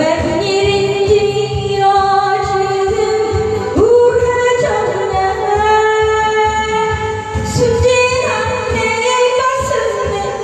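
Korean trot song: a woman sings long held notes that slide from one pitch to the next over a backing track with a steady beat.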